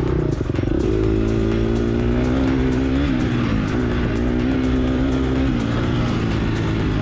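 Four-stroke single engine of a 2022 Gas Gas EX250F dirt bike running hard under load, revs rising and falling as the rider works the throttle.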